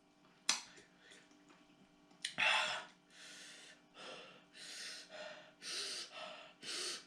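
A person breathing hard through the mouth in a string of hissing breaths and gasps, the reaction to the burn of very spicy fire noodles. There is one louder gasp a couple of seconds in, then shorter breaths about once a second.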